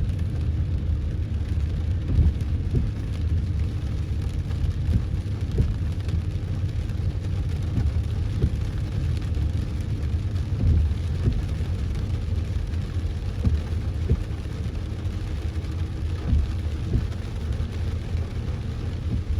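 Vehicle driving through heavy rain: a steady low rumble of engine and road noise, with the patter of rain.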